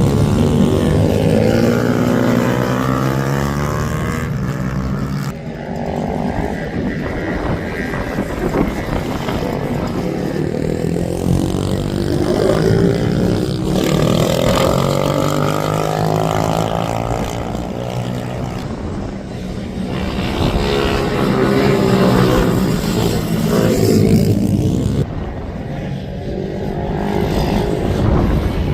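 Several racing minibike engines revving hard as the bikes pass on track, their pitches rising and falling through throttle changes, overlapping one another.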